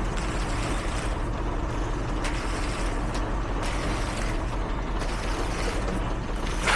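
Heavy diesel construction vehicle engine running steadily, a low even rumble.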